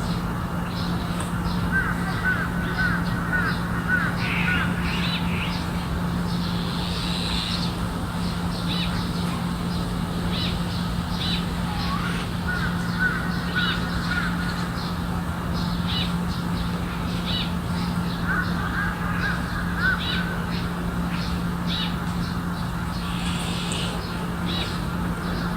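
Crow-family birds calling: three bouts of rapid, chattering calls of about two seconds each, near the start, in the middle and about three-quarters through. Short high chirps come and go throughout, over a steady low hum.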